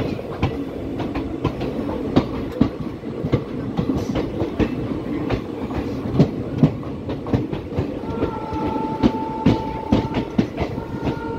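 Passenger trains running on parallel tracks: steady wheel-and-rail rumble with repeated clickety-clack of wheels over rail joints, heard from a moving coach. Near the end a train horn sounds twice, a held steady tone of about two seconds, then a shorter one.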